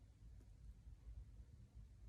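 Near silence: room tone in a pause between spoken phrases, with a faint low hum and one very faint tick about half a second in.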